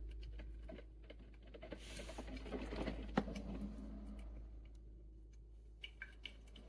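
Drip coffee maker running its cycle: scattered faint ticks and crackles, a brief hiss about two seconds in, and one sharp click about three seconds in.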